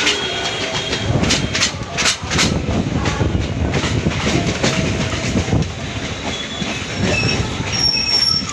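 Suburban electric local train running along the track, a steady rumble with a quick run of wheel clacks over rail joints about a second in and thin high wheel squeals near the end.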